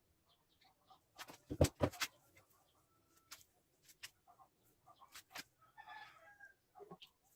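Scattered sharp clicks and knocks, the two loudest about a second and a half in, with a short chirping sound about six seconds in.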